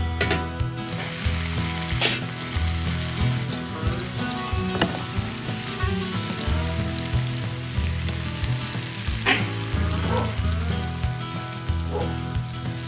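Steak sizzling in a campfire pan: steady frying hiss, with two sharp clicks, about two seconds in and about nine seconds in. Background music with a regular bass line plays underneath.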